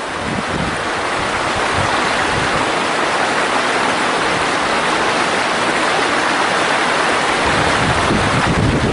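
Mountain valley stream rushing steadily, with low wind rumble on the microphone toward the end.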